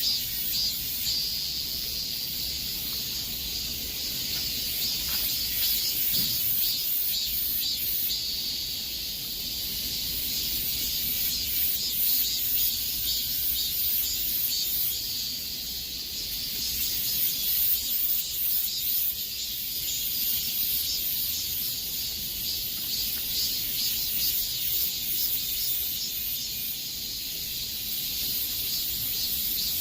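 Cicadas buzzing in chorus, a continuous high shrill that swells and eases every few seconds.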